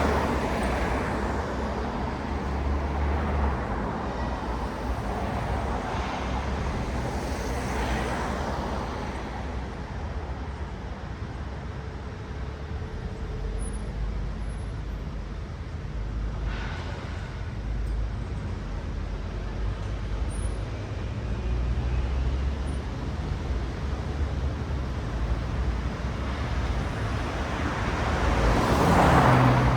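Road traffic with cars passing one after another over a steady low rumble of engines and tyres. Single vehicles swell up and fade away every several seconds, and the loudest pass comes near the end.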